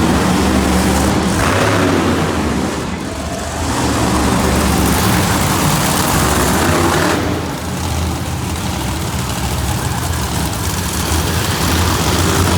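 Bone Shaker monster truck's engine running at high throttle during a wheelie run. Its loud, rushing note dips briefly about three seconds in and again near eight seconds in.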